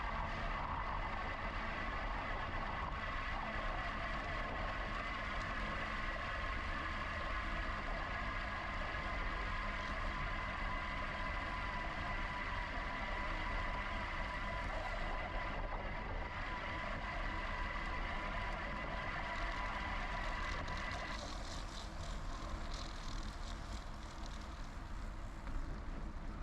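Steady riding noise on a GoCycle GX electric bicycle: low wind and tyre rumble with a steady high whine that shifts in pitch about two-thirds of the way through.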